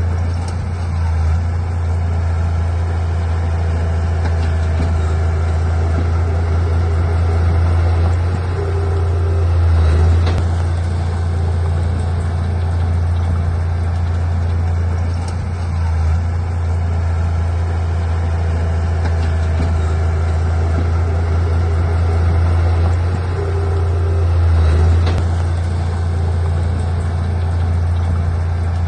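Heavy diesel engine of earthmoving machinery running steadily with a deep hum, swelling louder under load twice, about ten seconds in and again near 24 seconds.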